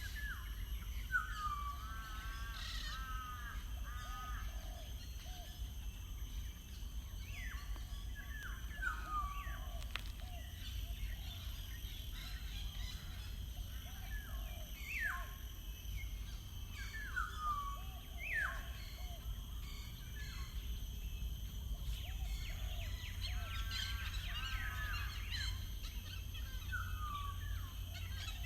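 Wild birds calling and singing: short, sharply falling chirps and brief warbled phrases every second or two, over a steady low rumble.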